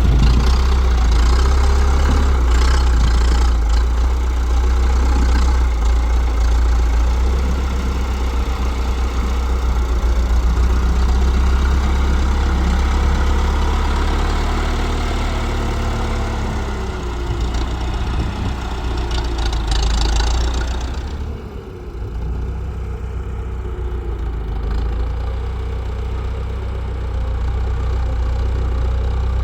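Tractor engine running steadily with a strong low rumble. A little over two-thirds of the way through, the higher clatter falls away and the engine runs on quieter.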